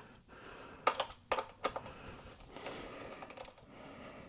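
Small sharp clicks and taps of screws and small computer parts being handled and set in place, three louder clicks about a second in.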